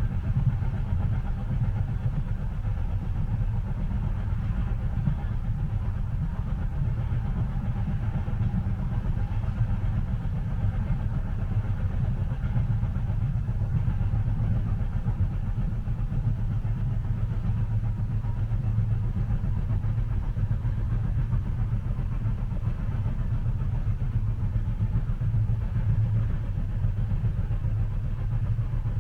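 Steady low rumble of a train running, heard from inside the passenger cabin.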